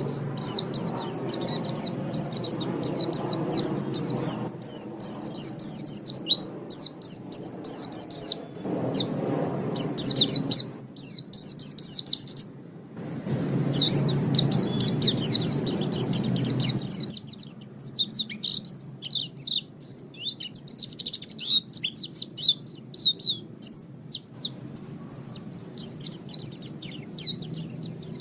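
Pleci (white-eye) singing a fast, continuous twittering song of quick, high chirps, breaking off briefly about halfway through. A low background rumble sits under the song in the first half.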